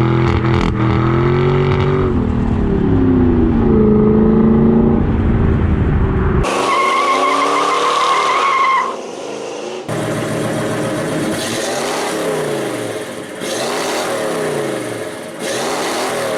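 Car engines revving and a squeal like tyres spinning, heard in several short cuts: first an engine rising and falling in pitch, then a steady high squeal for a couple of seconds, then an engine revved up and down over and over.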